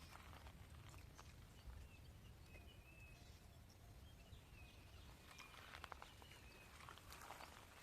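Near silence: faint outdoor ambience with a low rumble, a few faint bird chirps, and scattered light clicks.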